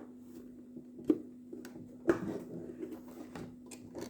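Handling noises from unboxing a mini fridge: scattered light clicks and knocks, the sharpest about a second in and another about two seconds in, over a steady low hum.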